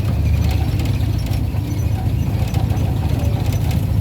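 Old Mitsubishi Minicab on the move: a steady low engine and road rumble, with a few faint short squeaks over it.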